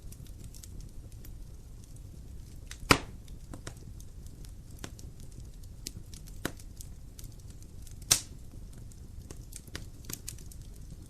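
Wood fire burning in a fireplace: a low rumble of flames with scattered small crackles and two loud pops, about three seconds in and about eight seconds in.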